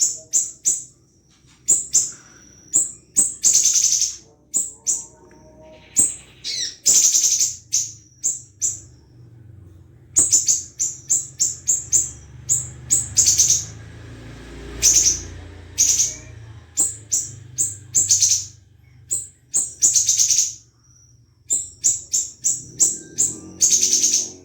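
A small siri-siri songbird singing persistently: quick runs of sharp, very high chirps broken by short buzzy trills.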